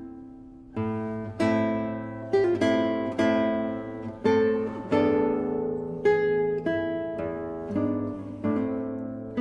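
Solo classical guitar music: plucked chords and single notes, each ringing and fading, picking up again after a short lull near the start.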